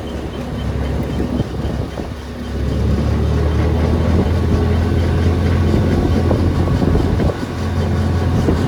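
Small open three-wheeled GoCar's engine running as the car is driven, a steady low drone that grows louder about two and a half seconds in and dips briefly a little before the end.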